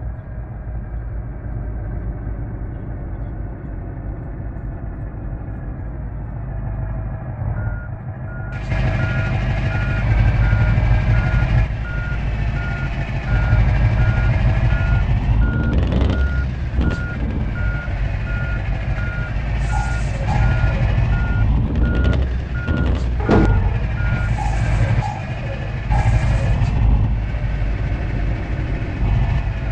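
Truck engine running, its pitch rising and falling, with a reversing alarm beeping evenly at one pitch from about eight seconds in until about five seconds before the end. A few sharp knocks sound partway through.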